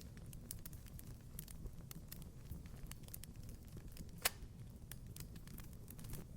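Wood fire in a fireplace crackling: scattered small crackles over a low, steady rumble, with one louder pop a little past four seconds in.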